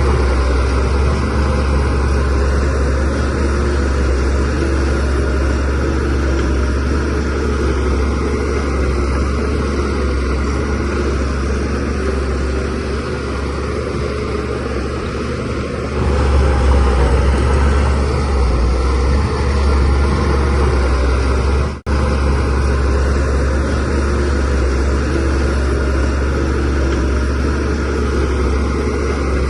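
DH17C3PRO bulldozer's diesel engine running steadily with a deep drone, growing louder about halfway through. The sound cuts out for a moment about two-thirds of the way through.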